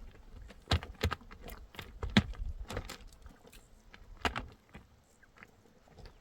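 A few sharp, irregular knocks and clicks, about five of them, the loudest about two seconds in, over a quiet background.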